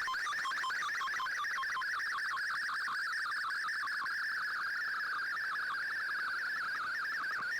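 Shortwave Radiogram digital-mode data signal received on a shortwave receiver: a continuous, fast warble of shifting audio tones confined to a narrow band, the sound of MFSK or SSTV data being transmitted.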